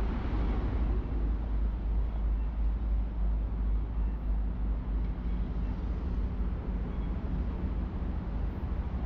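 Steady city street ambience in the rain: a constant rumble of traffic under an even hiss of rain and wet roads.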